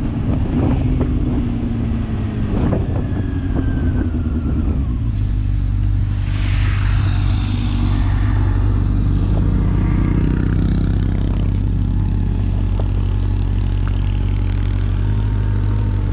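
Motorcycle engine with wind rush and rattling for the first five seconds or so, then running at a steady idle.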